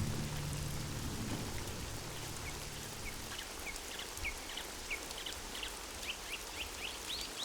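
Steady rain falling, with small birds chirping in short high notes from about two and a half seconds in, coming more often toward the end.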